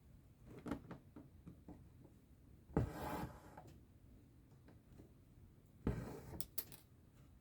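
Needle and thread being drawn through cross-stitch fabric: a soft rasp every few seconds, each opening with a light tap, with a few sharp clicks near the end.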